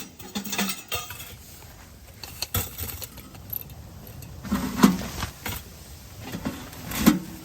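Camping gear being handled and set down inside a tent: scattered clicks, rattles and knocks, with two louder thumps, one about five seconds in and one near the end.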